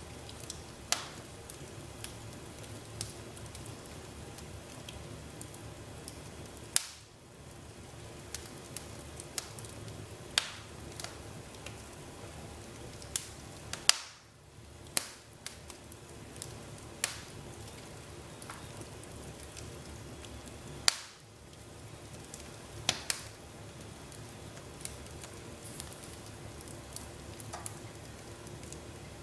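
Fireplace fire crackling: irregular sharp pops every second or few over a steady low hiss, with a few louder snaps.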